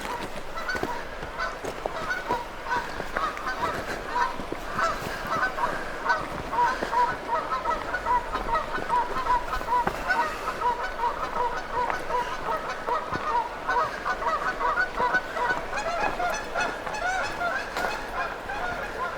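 Several geese honking continuously, many short calls overlapping in rapid succession: agitated alarm calls from geese defending their nests.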